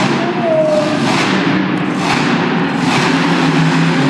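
Monster truck engine running loudly, its exhaust note surging several times.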